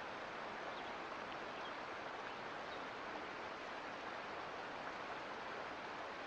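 Mountain creek flowing steadily, an even rush of running water.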